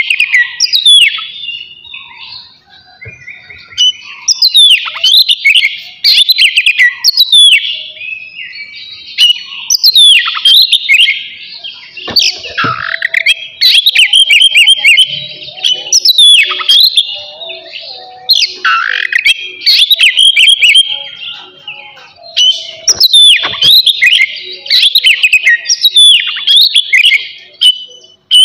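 Oriental magpie-robin (kacer) singing loudly: phrases of sharp downward-sweeping whistles and fast rattling trills come in bursts every few seconds, with short pauses between them.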